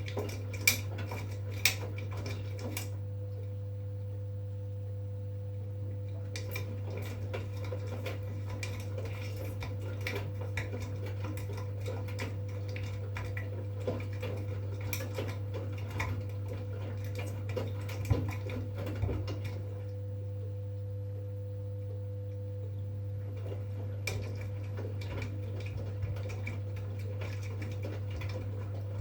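V-Zug Unimatic SL washing machine in its wash cycle: a steady low hum under light clinks and knocks as the laundry tumbles in the drum. The clinking stops twice for a few seconds, as the drum pauses between turns.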